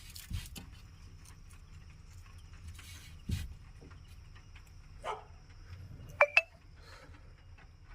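Two short, sharp animal calls in quick succession about six seconds in, with a dull thump a few seconds earlier.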